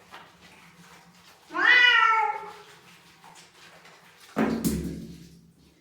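A domestic cat meows once, a loud call rising then falling in pitch. About three seconds later there is a sudden thump.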